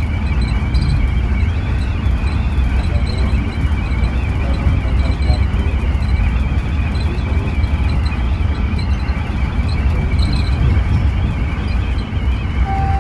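Scania coach under way, heard from inside: a steady low rumble of engine and road noise with a thin high whine running over it.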